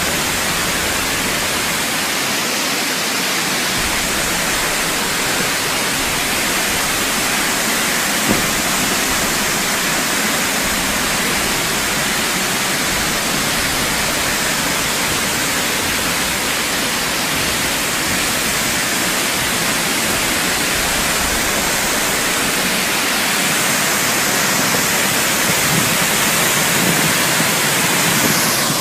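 Haew Suwat Waterfall: water falling and rushing with a steady, unbroken hiss that grows slightly louder near the end.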